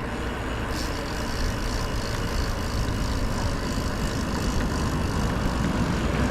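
Wind buffeting the microphone: a steady, rough rumble with a hiss that picks up about a second in.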